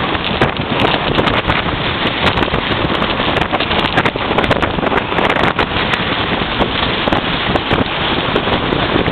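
Strong wind buffeting the microphone: loud, gusty rushing noise that rises and falls, with frequent crackles where it overloads.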